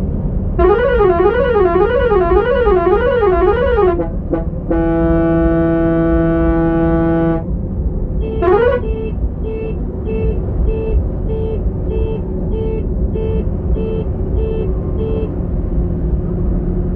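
Multi-tone musical vehicle horn: first a warbling tone rising and falling about three times a second, then a steady blast, then a short rising whoop and a run of quick beeps about two a second. A diesel engine runs steadily underneath.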